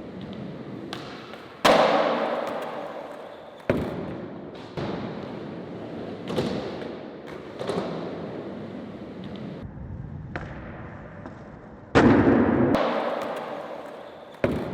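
Skateboard impacts on concrete: a series of sharp thuds, each followed by the fading rattle of wheels rolling away, several times over.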